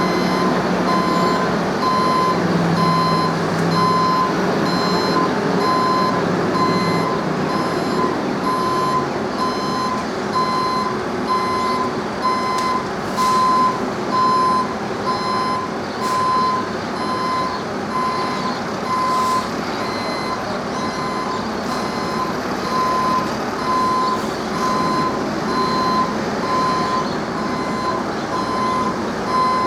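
Vehicle reversing alarm beeping steadily, about once a second, over a low engine hum that fades out after about seven seconds.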